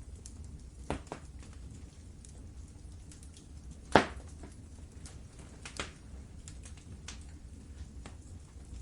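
Wood fire in a fireplace crackling with scattered sharp pops, the loudest about four seconds in, over a low steady rumble.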